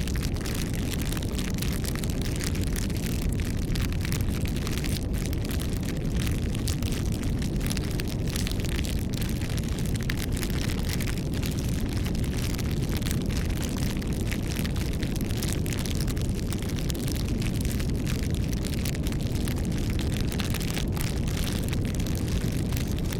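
Wood fire burning, crackling and popping many times a second over a steady low rumble.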